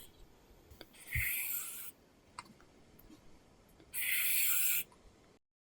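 Apple Pencil scratching across a paper-texture screen protector on an iPad as strokes are drawn: two longer scratchy strokes, about a second in and about four seconds in, with faint taps between. The sound cuts to dead silence near the end.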